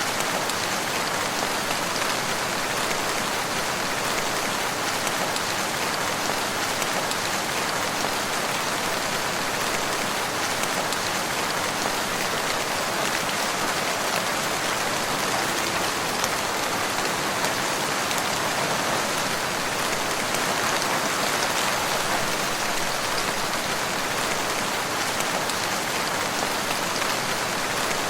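Steady rainfall, a dense even patter of raindrops falling without letting up.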